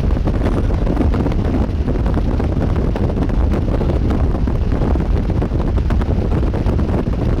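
Strong wind buffeting the microphone, a steady low rumble with constant flutter.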